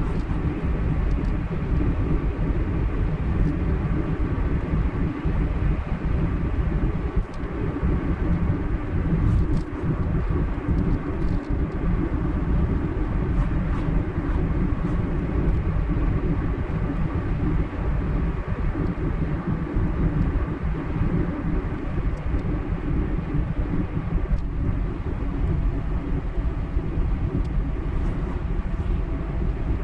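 A car driving steadily at road speed: a continuous low rumble of tyres on the road and engine.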